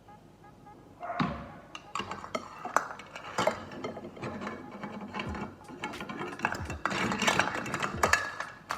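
Spoon and measuring cup clinking, knocking and scraping against a bowl while butter is measured out, a busy run of small strikes and scrapes starting about a second in.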